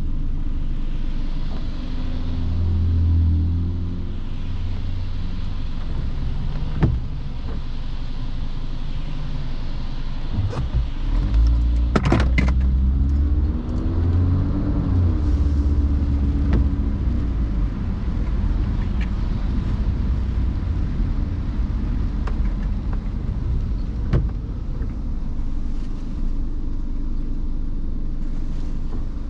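Car driving on rain-wet roads: a steady low rumble of engine and tyre noise, with the engine note rising twice as it picks up speed and a few sharp knocks along the way.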